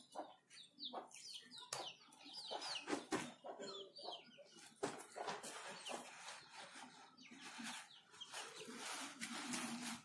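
Birds calling in a quick run of short, falling chirps during the first few seconds. Later comes soft rustling, fitting a cloth snake bag being handled on the dirt.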